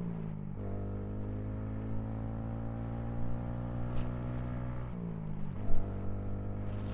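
Honda Grom's 125cc single-cylinder engine running under way, a steady note that dips and picks up again twice, near the start and about five seconds in.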